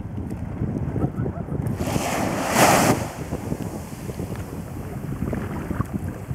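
Wind buffeting the microphone over water noise as a small sailing outrigger canoe moves along. About two seconds in, a louder rushing hiss swells and ends about a second later.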